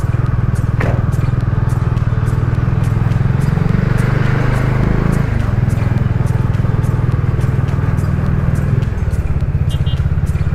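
Motorcycle engine running steadily while being ridden. Its note rises briefly about four seconds in and then settles back.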